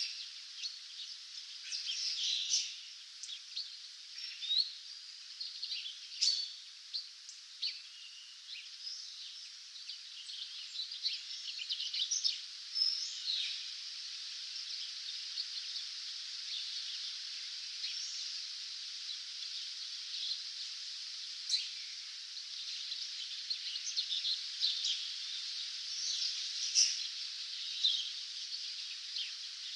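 A dawn chorus of several small songbirds singing and chirping over one another, with many short chirps and trills, over a steady high hiss.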